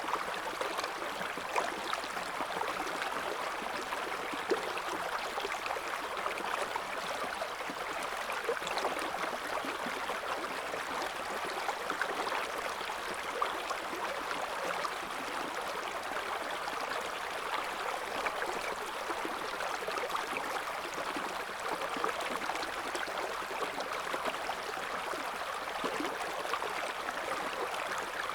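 River water flowing and burbling over stones, a steady splashing rush with small gurgles throughout.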